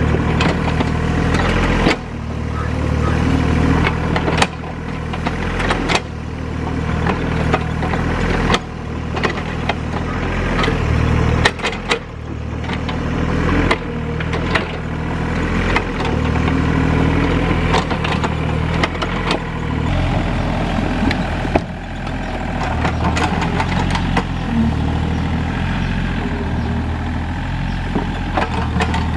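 Hydraulic excavator's diesel engine running steadily, with repeated sharp knocks and clanks from the machine at work, the engine level rising and falling every few seconds.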